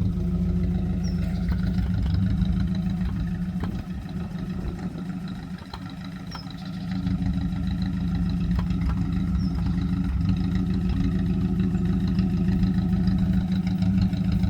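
Old Ford Prefect's sidevalve four-cylinder engine ticking over at idle. The engine note dips for a few seconds about four seconds in, then picks up again.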